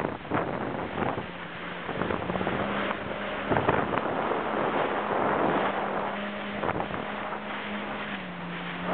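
Jet ski engine running steadily on the water, its pitch stepping up slightly about two seconds in and dropping back near the end. Wind buffets the microphone over it.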